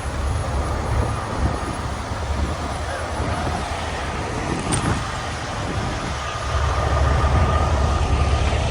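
Low, steady outdoor rumble of vehicle and traffic noise, with a faint steady whine coming in about two-thirds of the way through.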